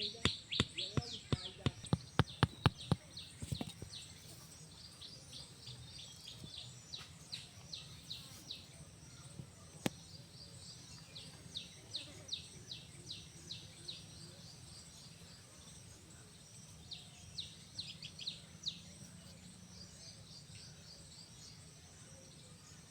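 Small birds chirping outdoors in short, quick series of high notes that come and go. A rapid run of sharp clicks or taps comes first, over a low steady background hum.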